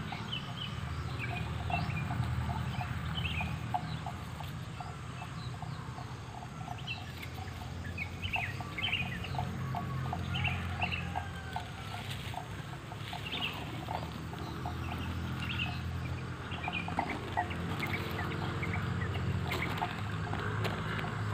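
Outdoor field ambience: birds chirping and calling again and again in short notes, over a steady low hum.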